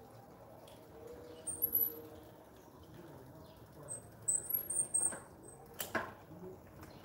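Small bird chirping: a few very high, short chirps about a second and a half in, then a quicker run of them from about four to five and a half seconds in. A single sharp click comes near the end.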